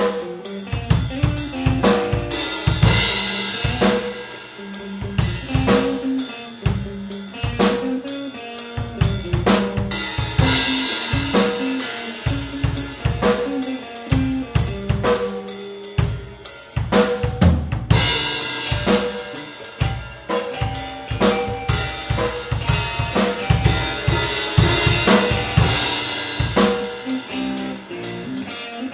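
Improvised blues-fusion instrumental: a drum kit keeps a steady, busy beat on snare, bass drum and cymbals under a guitar playing.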